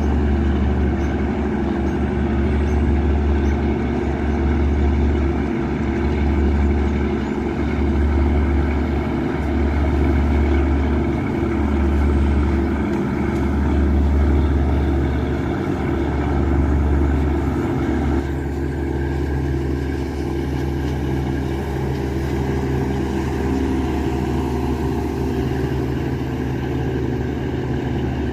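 829 hp Yanmar marine diesel engine of a river passenger boat running steadily with a deep, pulsing throb. About two-thirds of the way through, the throb drops away and the engine note shifts a little lower in level.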